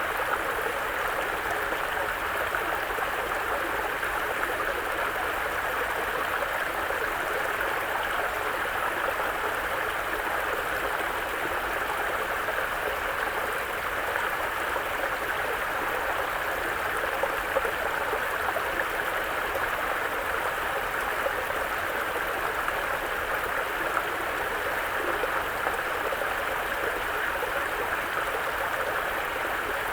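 Mountain brook flowing, a steady rush of running water.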